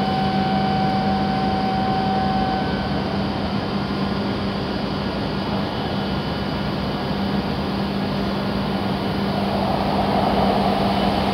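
Steady background hum with a low drone. Starting about nine seconds in, a growing rush as an E7 series Shinkansen train approaches the platform.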